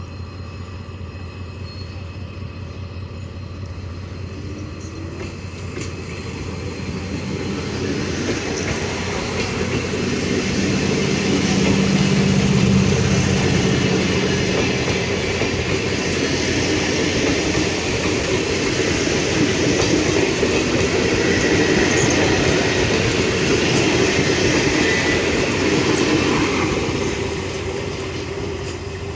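Toshiba electric multiple unit pulling out of the station, wheels clattering on the rails. It builds over the first dozen seconds, stays loud, then fades near the end.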